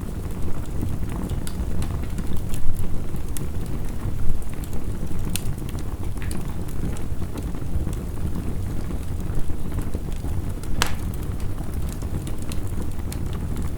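Crackling wood fire layered over heavy rain: a steady low rumble with scattered sharp crackles and pops, one louder pop about three quarters of the way through.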